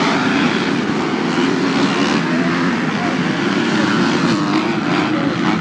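Racing dirt bike and quad engines running together at high revs, a steady, dense engine drone with pitches wavering as throttles open and close.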